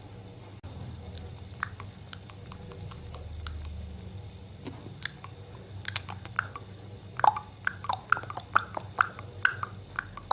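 A parrot clicking. There are a few scattered sharp clicks at first, then from about seven seconds in a quick run of loud clicks with short squeaky chirps, about two a second, over a low steady hum.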